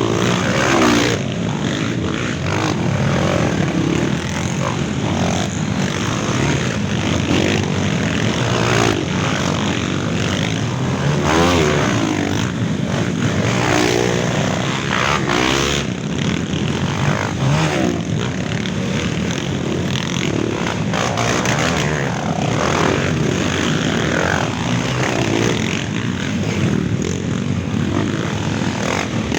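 Many trail motorcycle engines revving and passing one after another, pitch sweeping up and down as each bike goes by, over a steady engine din.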